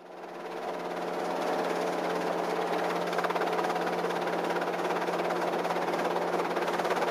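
Robinson R22 helicopter's Lycoming O-320 engine and rotors running at steady power with a fast, even pulsing, fading in over the first second or so.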